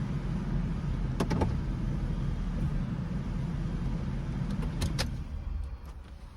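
2004 Ford F-150 running and driving, a steady low rumble that dies down near the end, with two short clicks along the way. The owner says the truck still struggles after its EGR vacuum solenoid was replaced.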